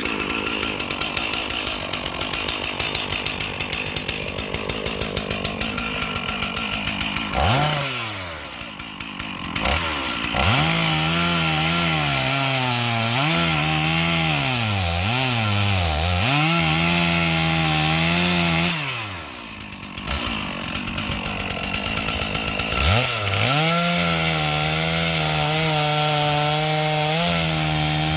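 Stihl MS 461 two-stroke chainsaw cutting into a standing ash tree to fell it. It runs at full revs with the pitch sagging and recovering again and again under load. It drops back toward idle about a quarter of the way in and again about two-thirds of the way in, then revs back up each time.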